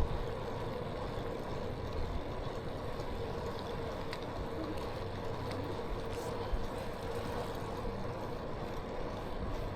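Steady mechanical hum over a low rumble, with a constant mid-pitched tone and a few faint ticks, like an engine or traffic running nearby.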